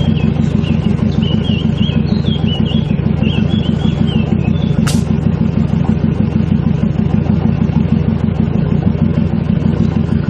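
Off-road 4x4's engine idling steadily with a rapid, even pulse. Faint high chirps sound over it in the first few seconds, and a single sharp click comes about five seconds in.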